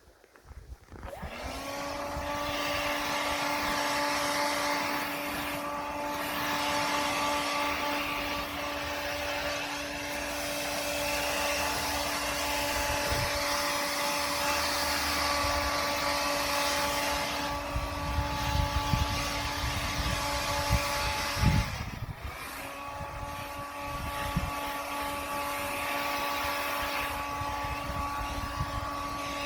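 Leaf blower running at a steady pitch, blowing freshly fallen snow. It comes up to speed about a second in, drops off briefly about two-thirds of the way through, then runs steadily again.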